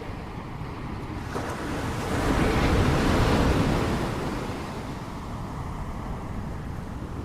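Ocean surf: a wave breaks about a second and a half in, its rush swelling to a peak and then washing away over a few seconds, over a steady low rumble of sea noise.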